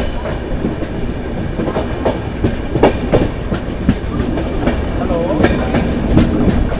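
Express train running at speed, heard from the coach: a steady low rumble of wheels on the track with irregular clicks and clacks as the wheels pass over rail joints.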